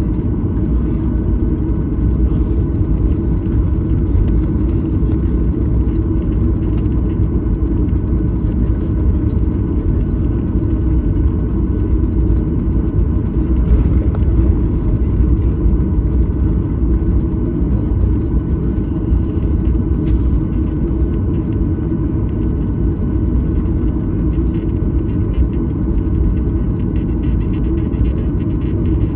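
Boeing 737-900ER's CFM56-7B engines at low, steady thrust, heard inside the cabin. A steady rumble with faint, even whine tones above it, with no rise or fall in power.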